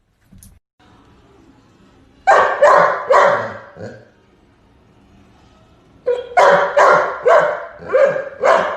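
A dog barking in two runs: about four quick barks a couple of seconds in, then about six more from about six seconds in.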